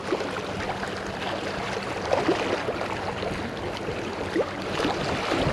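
Outdoor water and wind ambience, a steady hiss with scattered small ticks and light knocks.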